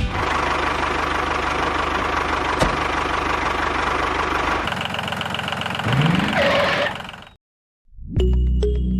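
A motor runs steadily with a fast, even pulsing. About five seconds in its sound changes, with a short rising whine, then it fades out. After a brief silence, music starts near the end.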